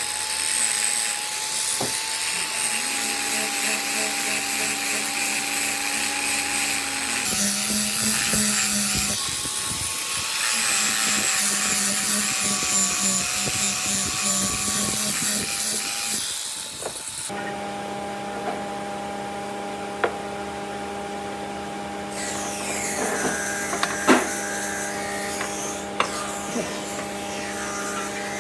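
Electric power tools running on wood: for the first half a tool with a noisy, wavering whine, then after an abrupt change a steady machine hum with a few sharp clicks.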